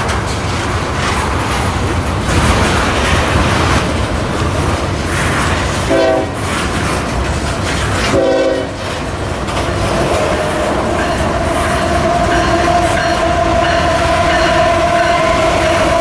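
Tank cars of a long freight train rolling past with a steady rumble and clatter of wheels on rail. A locomotive horn sounds two short blasts about six and eight seconds in, then a long held blast from about ten seconds on as an oncoming Union Pacific locomotive approaches on the next track.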